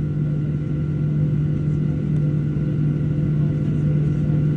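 Steady drone inside the cabin of a Boeing 737-700 on the ground: an even low hum with a few fainter steady tones above it, growing slightly louder near the end.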